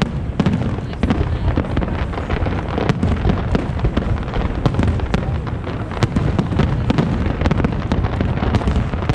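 Fireworks show heard from the crowd: a dense, continuous barrage of many overlapping booms and sharp crackles, with no pause between them.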